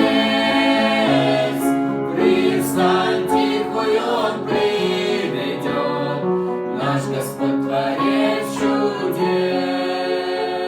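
Choral singing: several voices holding sustained, changing notes together, with accompaniment.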